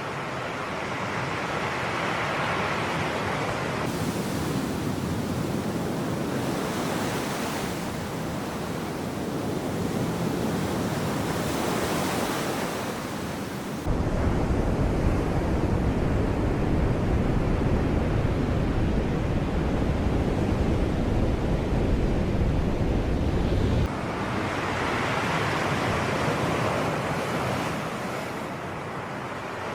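Sea waves washing in and out, swelling and easing every several seconds. About halfway in, a heavy low rumble joins for about ten seconds, starting and stopping abruptly.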